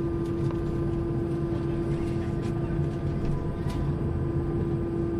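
Cabin noise inside an Airbus A321 airliner: a steady engine hum with a constant mid-pitched tone over a low rumble.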